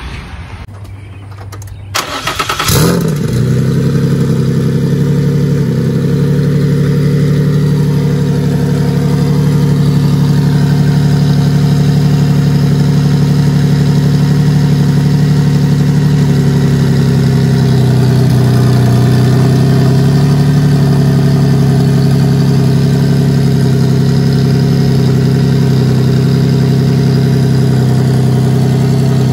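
Turbocharged Nissan 350Z's VQ35 V6, with a hood-exit open dump, starting: a brief crank about two seconds in, a quick rising flare as it catches, then a steady, loud idle.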